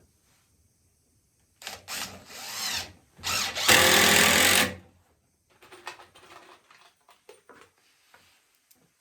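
Power drill running in short stop-start bursts, then a louder steady run of about a second and a half, working into the walnut chair parts. After it, a few light knocks and clicks of handling.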